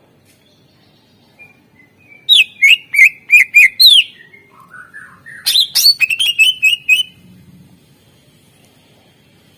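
Green leafbird (cucak ijo) singing loud, sharp whistled notes: about six strong notes each falling in pitch, a softer rising phrase, then a quick run of about eight notes, with quiet before and after.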